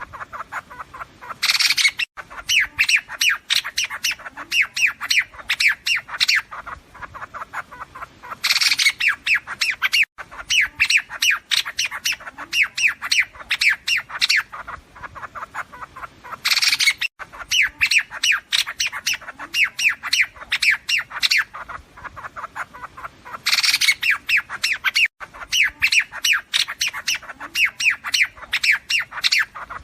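Calls of the liếu điếu bird, a flock-calling lure recording for bird trapping. A harsh loud burst is followed by a quick run of chirps, and the same sequence repeats about every seven seconds.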